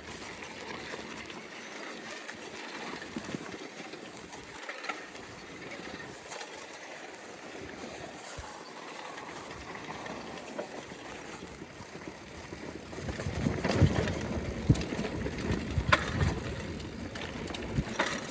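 Bicycle riding along a dirt trail: a steady rushing of tyres and wind with rattles and knocks, growing louder and rougher about thirteen seconds in, with a couple of sharp clicks near the end.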